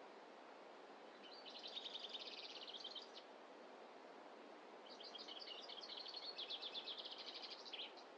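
A small songbird singing two rapid trilled phrases of high, quickly repeated notes, the second longer than the first, over a faint steady hiss of forest background.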